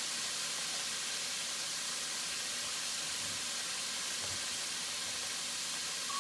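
Chicken wings frying in hot oil, a steady sizzle.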